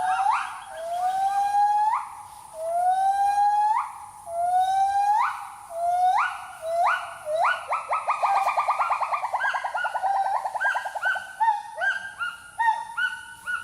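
Gibbons singing in the forest canopy. A series of loud rising whoops comes about once a second, speeds into a fast quavering climax around eight seconds in, and then breaks into shorter hoots from several voices overlapping.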